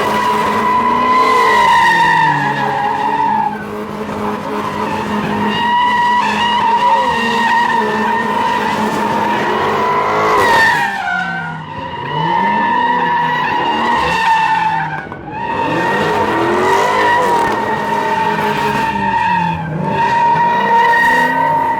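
Car tires squealing in a continuous slide with the engine revving up and down under it; the squeal breaks off briefly about halfway through and again a few seconds later before resuming.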